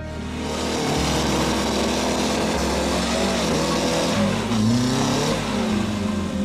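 Off-road 4x4 vehicle's engine revving, its pitch rising and falling several times over a steady low running note.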